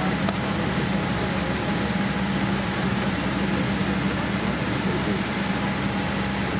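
Steady drone of an airliner cabin, a Boeing 787-8, with a constant low hum under an even air-conditioning hiss. Faint voices murmur underneath.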